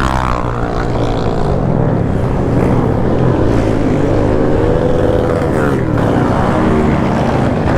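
Motorcycle engine running loudly, its revs rising and falling.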